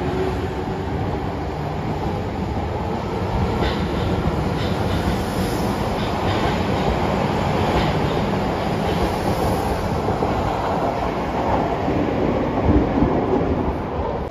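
Electric commuter train running out of an underground station: a steady rumble of wheels on rail with a few sharp clicks over rail joints, dropping away as the last car clears near the end.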